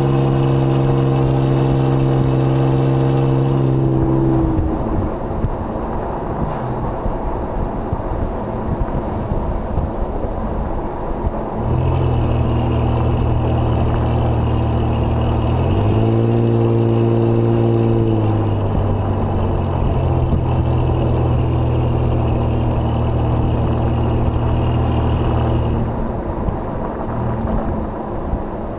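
Exhaust of a 2005 Jeep Grand Cherokee through a Thrush welded muffler, droning steadily under way; about four seconds in the drone drops away to road and wind noise, then returns at about twelve seconds and holds until about twenty-six seconds, with a brief change in its pitch around sixteen seconds.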